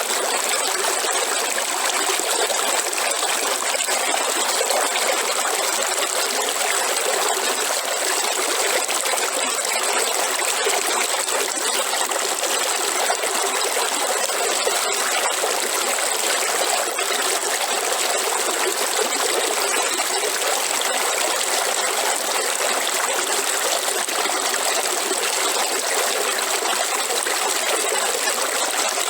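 Waterfall: a steady, unbroken rush of falling and splashing water, with little deep rumble.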